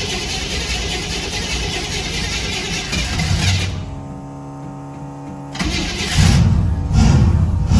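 Turbocharged 1962 Chevy's engine being cranked over and firing up, then running. Louder music comes in over it in the last couple of seconds.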